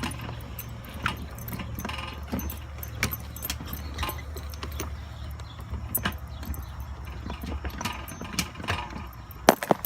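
An engine running low and steady, fading out about eight and a half seconds in, under scattered metallic clicks and rattles, with a quick cluster of sharper clicks near the end.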